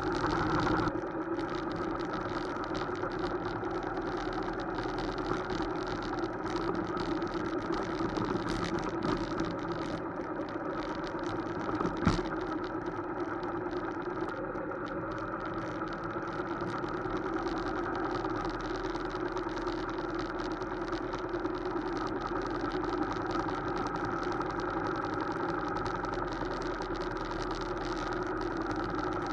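Motorcycle engine running steadily at an even speed, with a single sharp knock about twelve seconds in.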